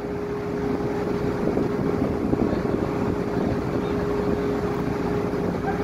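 Boat engine running steadily: a low rumble with a constant hum over it.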